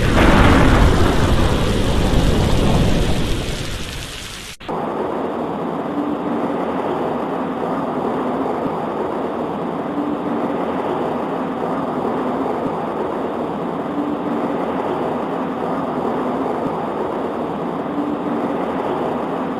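A thunderclap breaks right at the start and its low rumble dies away over about four seconds. The sound then cuts suddenly to steady rain pattering on a window.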